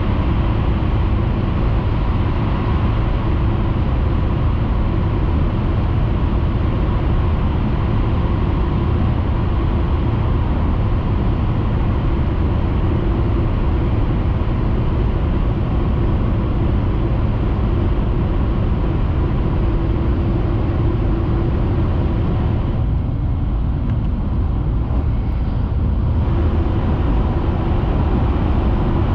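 Steady running noise of a Hayabusa Shinkansen train at speed, heard inside the passenger cabin: a deep rumble under a constant hiss. The hiss thins out for a few seconds near the end while the rumble carries on.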